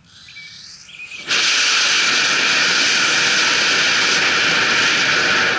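J800 solid rocket motor, loaded with a single propellant grain, on a static test: a faint sputtering hiss from the igniter, then about a second in the motor lights with a sudden loud, steady rushing roar that holds for about four seconds and cuts off abruptly, with a lot of propellant still left in the motor.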